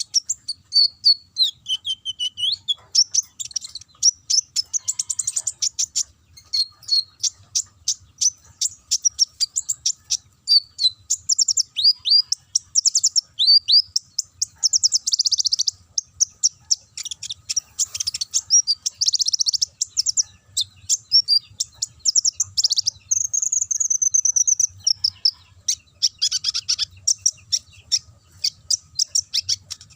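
A konin songbird singing in canary style: long runs of fast, high-pitched trills, chirps and whistled glides, phrase after phrase with only short breaks.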